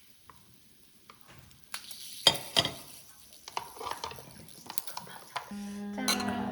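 Meat sizzling on a grill, with sharp clicks and clinks of cutlery and dishes starting about two seconds in after a quiet opening.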